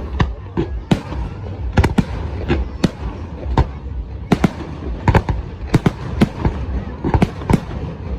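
Fireworks going off: an irregular run of sharp bangs, about two a second and sometimes in quick pairs, over a steady low rumble.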